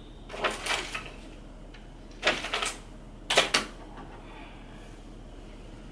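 Three brief clusters of clattering and rustling, about a second apart, as things are moved around while tidying a room.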